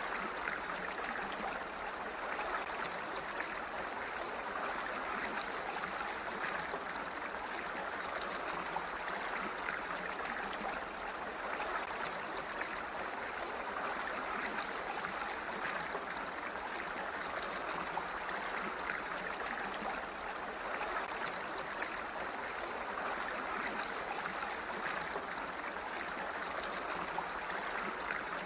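Water flowing steadily, an even rushing sound with no breaks.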